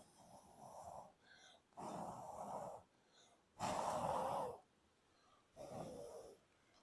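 A person blowing long breaths onto the dying embers of a small wood-burning camp stove to revive the fire, four blows about two seconds apart, the first one weaker.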